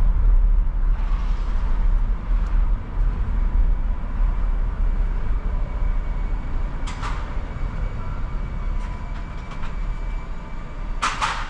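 Car driving on city streets: a steady low rumble of engine and road noise, with two short sharp sounds, one about seven seconds in and a louder one near the end.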